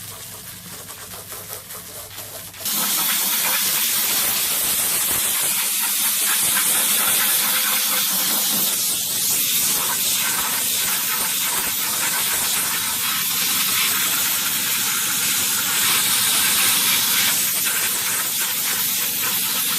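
Water spraying hard from a hose nozzle, rinsing soap off a wheel and tyre: a steady loud hiss that starts suddenly a few seconds in, after a quieter trickle of water.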